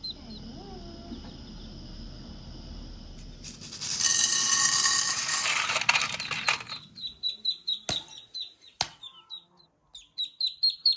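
A loud rushing, hissing noise lasting about three seconds, then a small bird chirping rapidly, about four high chirps a second, with two sharp clicks among them.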